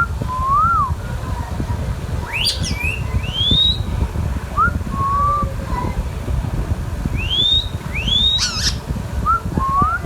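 Indian ringneck parrot whistling: a series of short rising whistles, with two sharp screeches, one about two and a half seconds in and one near the end, over a steady low rumble.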